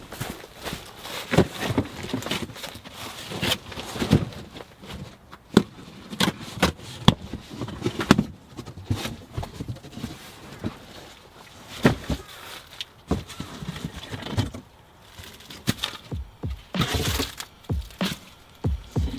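Irregular sharp knocks, cracks and clicks, one after another at uneven intervals, with rustling between them.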